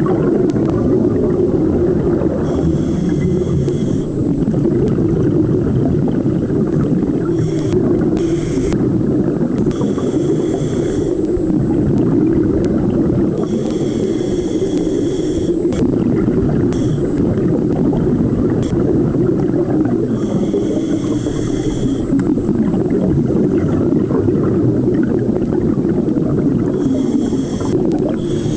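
Underwater sound of a scuba diver breathing through a regulator: a steady bubbling rumble, with a hiss of inhalation about every six to seven seconds, five breaths in all.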